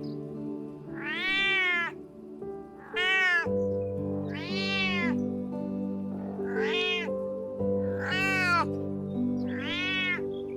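An animal giving six drawn-out calls, each rising and then falling in pitch, with short gaps between them, over background music with sustained low notes.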